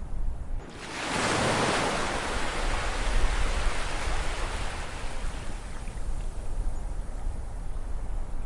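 Ocean wave breaking on the shore about a second in, then washing up and slowly fading in a long hiss, over a steady low rumble of surf.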